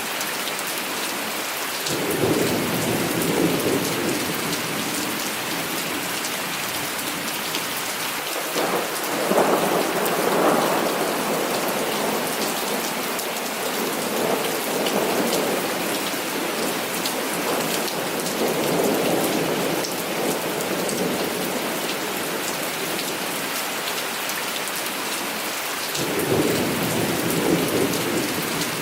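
Heavy rain pouring steadily, with fine crackling drops hitting a surface, while thunder rolls low about five times.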